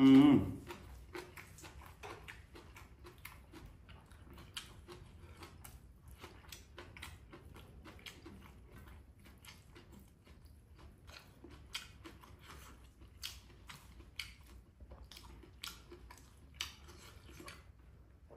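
A person chewing and eating by hand close to the microphone: many soft, irregular mouth smacks and clicks. A brief, louder voice sound comes at the very start.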